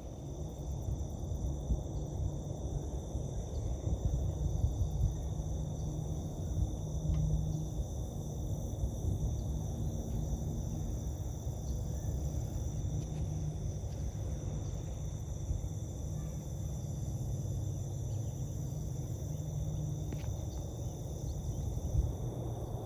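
A steady insect chorus from the field, held as several unbroken high-pitched tones, over a constant low rumble.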